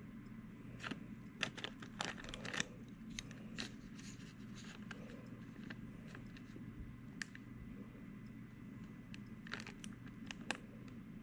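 Craft materials being handled on a work table: scattered rustles, crinkles and light clicks, busiest in the first few seconds and again near the end, over a steady low hum.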